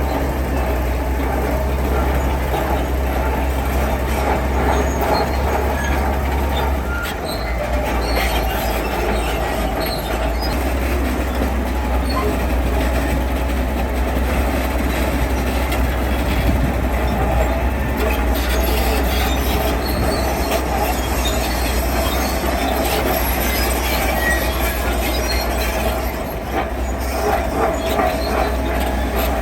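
Heavy diesel construction machinery working: a steady engine drone with metallic squealing and clatter, like the tracks of a tracked machine.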